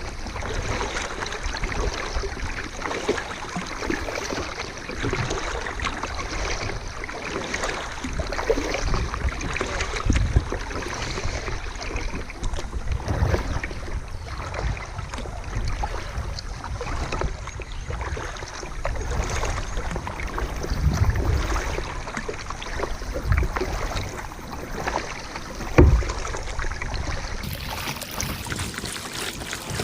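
Kayak paddling: paddle blades dipping and splashing in the water with wind buffeting the microphone, and one sharper knock near the end.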